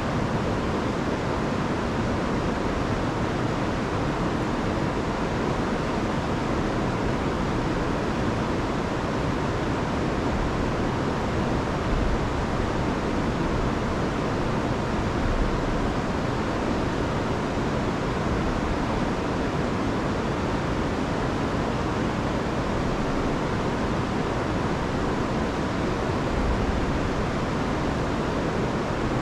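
Rain-swollen river rushing over a waterfall: a steady, even rush of water with no let-up.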